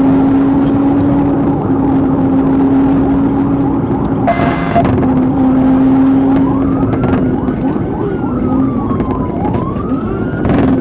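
Police car at pursuit speed: steady engine and road drone. A siren starts wailing, rising and falling, past the middle. There is a short sharp beep a little before the middle.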